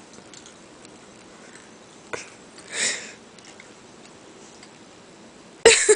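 A person sniffing once, a short breathy sniff about three seconds in, after a small click, over faint room noise. A brief loud sound comes near the end.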